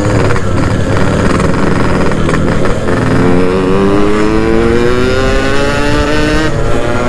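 Yamaha RX-King's 135 cc single-cylinder two-stroke engine pulling the motorcycle along under way. The exhaust note climbs steadily in pitch from about three seconds in as the bike accelerates, then drops sharply shortly before the end.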